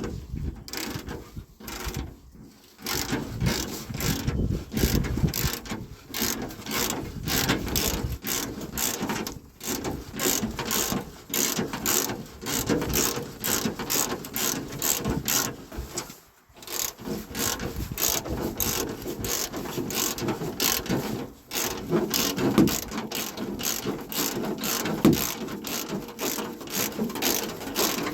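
Mechanical ratchet clicking, several clicks a second, in long runs broken by brief pauses every few seconds.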